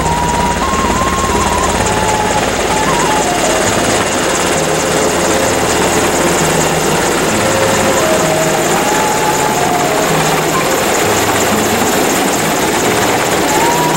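Helicopter running loudly and steadily, its rotor making a low rhythmic flutter under a dense rushing noise.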